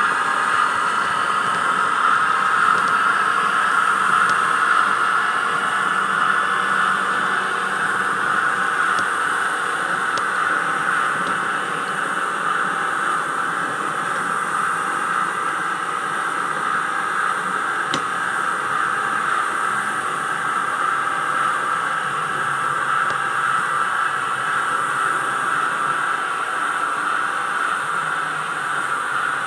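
Sound decoder's diesel engine sound for a class 106 shunting locomotive, running steadily through the model's tiny speaker, which leaves it thin and hissy with almost no bass. A faint click comes about two-thirds of the way through.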